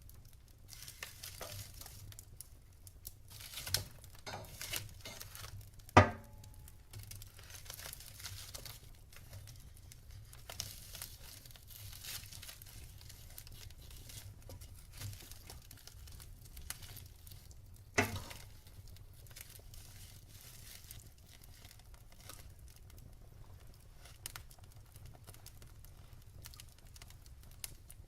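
Log fire crackling, with irregular small snaps and two loud pops, one about six seconds in and one around eighteen seconds.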